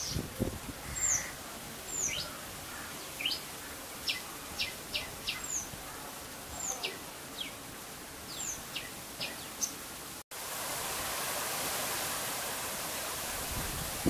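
A bird chirping in short, high calls, some sliding down in pitch, about a dozen over ten seconds, over a steady hiss of rain. After a brief break about ten seconds in, the rain hiss comes in louder and the chirps stop.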